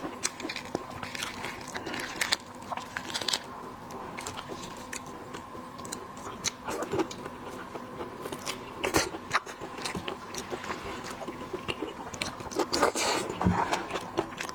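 Close-miked eating of shellfish: crunching and cracking shell with chewing, in many small sharp clicks and crackles, a few louder crunches among them. A faint steady hum runs underneath.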